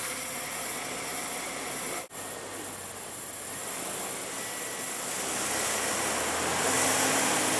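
A vehicle engine running steadily. It cuts out briefly about two seconds in, then grows louder over the last few seconds.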